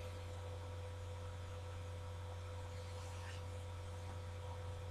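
Steady low electrical hum with a faint hiss underneath, typical of mains hum picked up in the recording.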